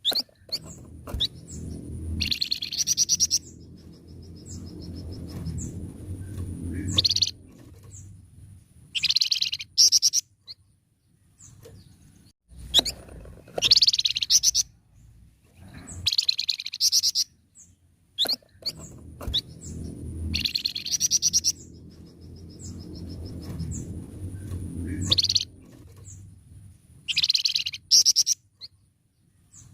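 A flamboyan songbird singing vigorously: loud bursts of rapid, chattering notes every few seconds, with short single chirps between them. A low rumble sits under some of the phrases.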